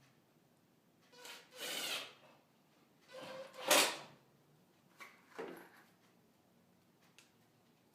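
Plywood pieces and tools being handled on a workbench: three short scraping, rubbing sounds, the loudest about four seconds in.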